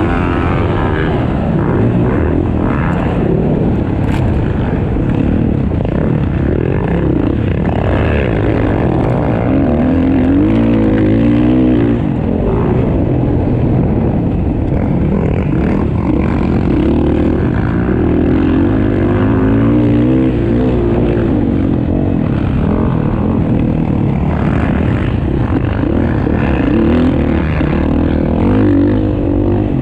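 Several motocross bike engines racing, their pitch rising and falling continuously as the riders open and close the throttle.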